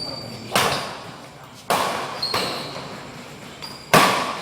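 Badminton rally in a reverberant hall: three sharp racket strikes on the shuttlecock, the second about a second after the first and the third about two seconds later, with short high squeaks of shoes on the court in between.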